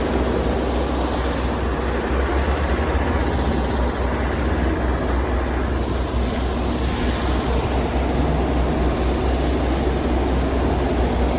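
Steady road and engine noise of a car driving at speed: an even low rumble under a constant hiss, with no clear change.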